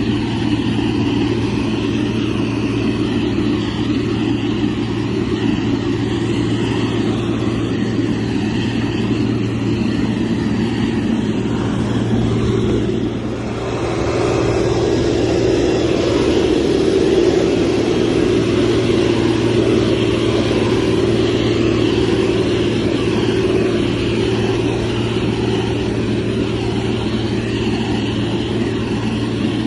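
Motor grader's diesel engine running steadily under working load. About thirteen seconds in it briefly drops, then comes back a little louder.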